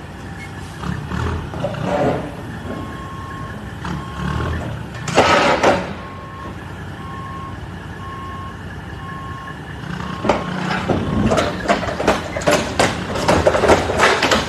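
An electronic beeper sounds one steady pitch, on and off about once a second, over a vehicle's running noise. A loud noisy burst comes about five seconds in, and a run of sharp knocks and crackles fills the last few seconds.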